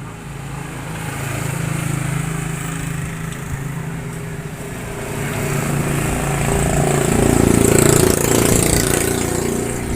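Small motorcycle engine running, its sound swelling, dipping, then growing loudest about eight seconds in before easing off.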